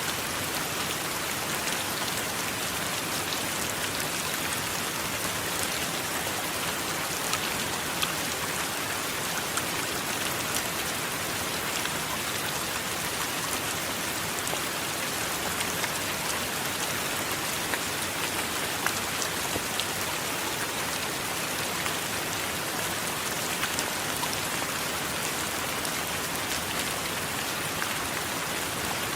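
Steady rain falling, with many individual drop impacts ticking through an even hiss. There is no thunder.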